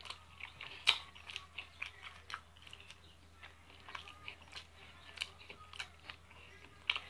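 Close-up chewing and lip-smacking of someone eating tender baked chicken thigh with her fingers: a scatter of short, wet clicks and smacks, the sharpest about a second in and again near the end.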